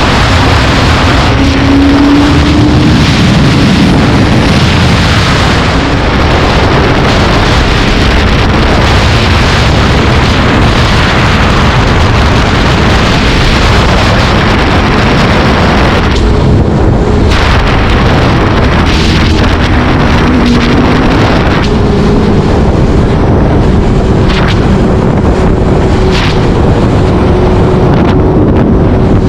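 Vehicle engine running on the move, with heavy wind noise on the microphone. The engine note climbs a few times: once near the start, again about two-thirds of the way in, then holds steady towards the end.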